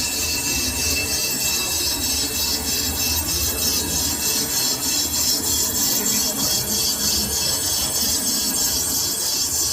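Lathe tool cutting a metal workpiece: a steady, high-pitched scraping hiss that pulses about three times a second.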